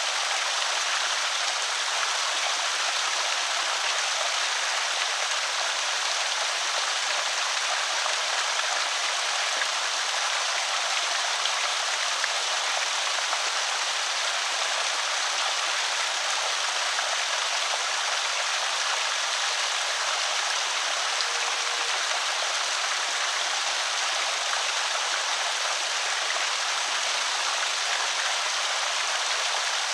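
Water pouring steadily over a small creek spillway, an even rushing trickle with no breaks.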